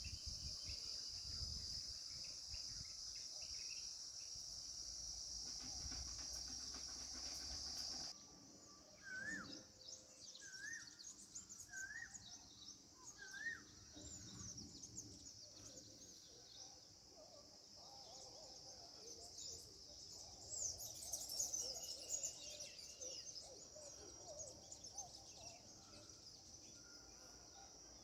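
Steady high buzzing of insects, with a low rumble underneath for the first several seconds. About eight seconds in the buzz drops and many short bird chirps come through, including four short rising calls about a second and a half apart.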